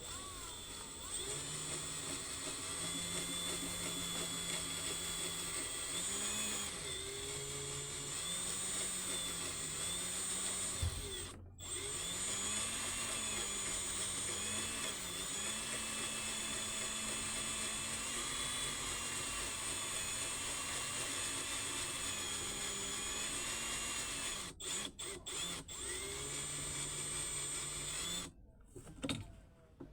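Power drill running with its motor speed rising and falling under the trigger. It stops briefly about halfway through, is blipped on and off a few times later, then stops near the end.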